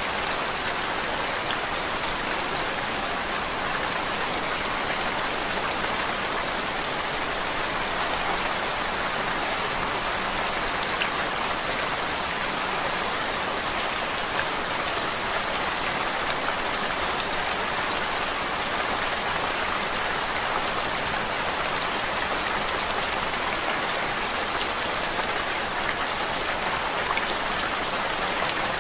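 Steady rain-style white noise: a continuous, even hiss with a fine patter of drops.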